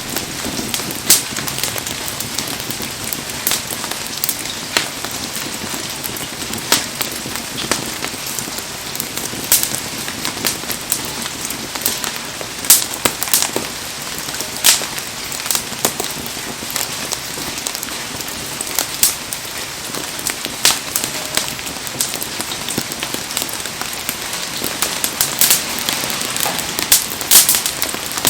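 Heavy rain falling steadily, with a wood fire crackling and giving off sharp pops every second or two.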